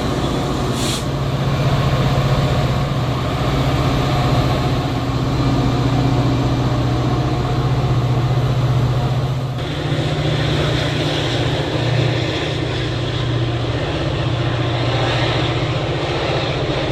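A diesel train's engine running with a steady low drone over rail and wheel noise. The noise changes and brightens about halfway through.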